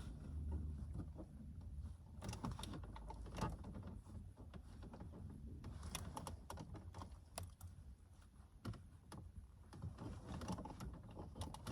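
Faint, scattered plastic clicks and rustling as a cut decorative trim strip is pressed into a car's dashboard air vent slats.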